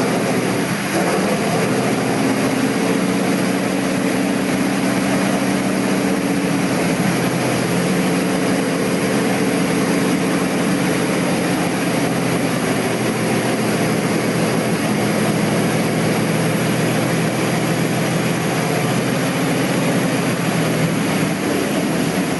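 Large old piston aircraft engine with propeller running loud and steady, its pitch shifting a little a few times.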